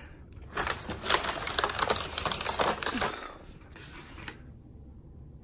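Small jingle bell on a cat wand toy attachment jingling rapidly as the wand is shaken, for about two and a half seconds, then trailing off.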